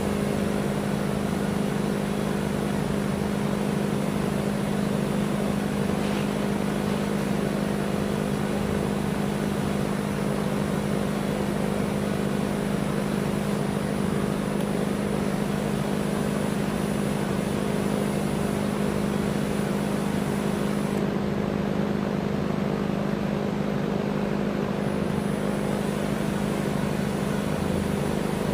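Electric motor running steadily, a constant hum that holds one pitch and one level throughout.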